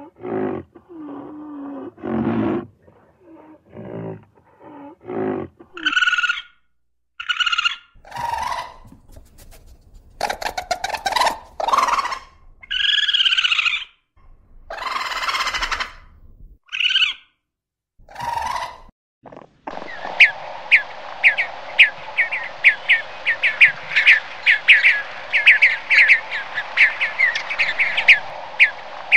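A series of short, low animal calls, then a few seconds of higher squealing calls and harsh bursts. About two-thirds of the way through, birdsong takes over: quick repeated chirps over a steady hiss of background.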